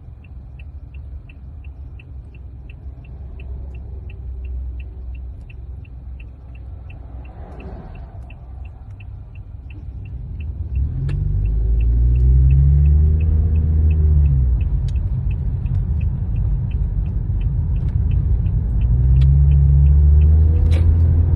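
Car engine and road rumble heard from inside the cabin, with a quick, even ticking for about the first ten seconds. Then the engine grows much louder, rising and falling in pitch twice as the car picks up speed.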